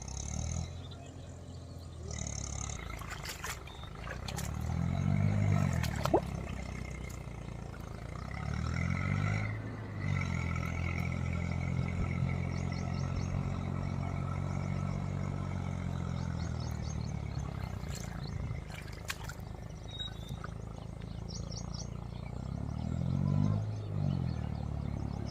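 Tractor diesel engine revving up and falling back several times, held at a steady higher speed for several seconds in the middle.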